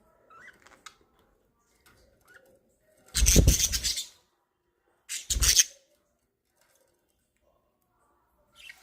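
Budgerigars chirping faintly, with two loud rustling, crackling bursts about three and five seconds in.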